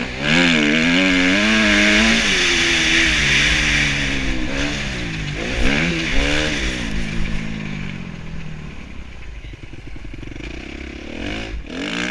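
2013 Kawasaki KX250F motocross bike's four-stroke single-cylinder engine revving up and down with the throttle. It is loudest in the first few seconds, eases off through the second half, and revs up briefly again near the end.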